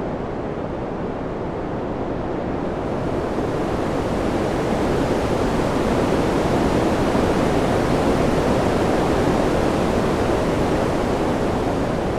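Wind: an even, rushing noise that slowly swells past the middle and eases a little near the end.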